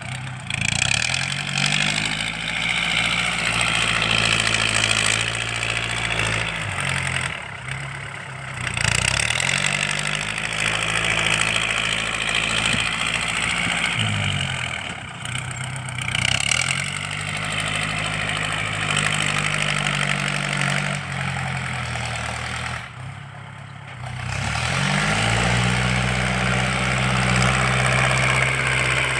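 L50 tractor's engine without a turbo, breathing through an open aftermarket racing exhaust. It is revved up and held high four times, dropping back towards idle between runs, with a loud, full exhaust note.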